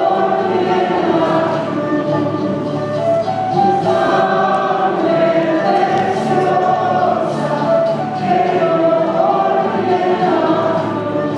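Church choir singing during the Mass, in phrases of a couple of seconds over a steady low accompaniment.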